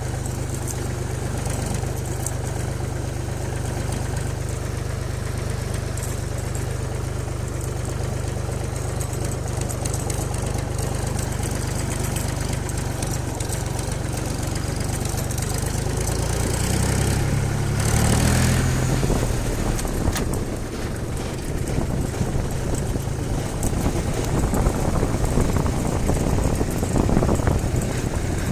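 Tractor engine running steadily at a low pitch, rising in pitch about two-thirds of the way through, then running rougher and more unevenly.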